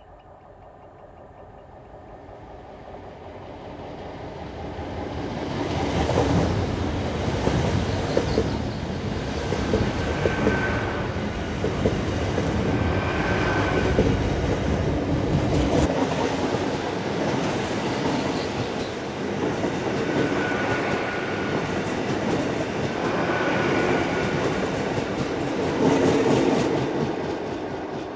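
GWR Class 800 bi-mode train running on its underfloor diesel engines as it passes on the down line, slowed for a temporary speed restriction. It grows from faint to loud over the first six seconds, then its wheels clatter rhythmically over the rail joints coach after coach, and it begins to fade near the end.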